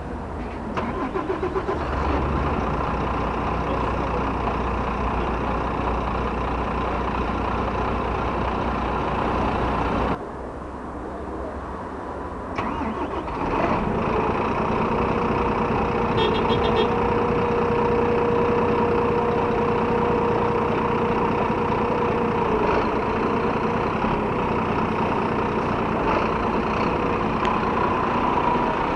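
Volvo B9TL double-decker bus diesel engines: one is idling and drops away suddenly about ten seconds in, then a couple of seconds later an engine cranks and starts, settling into a steady idle. A steady whine sits over the idle for several seconds in the second half.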